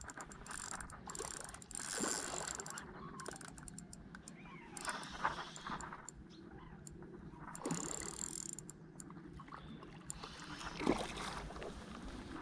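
Fishing reel being cranked, its gears whirring and clicking in several spells.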